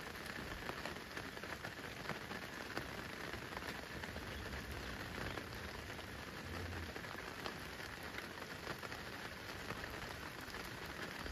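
Steady rain falling, with many small ticks from individual drops landing.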